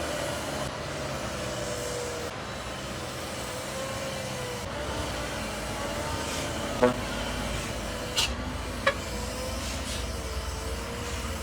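Heavy truck engine running with a steady low rumble, with three short sharp knocks close together about two-thirds of the way through.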